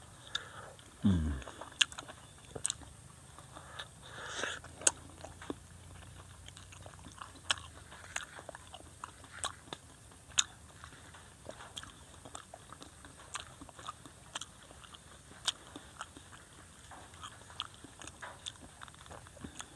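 Close-miked eating of a macopa (wax apple): a bite, then chewing, with scattered crisp crunches and wet mouth clicks at irregular intervals.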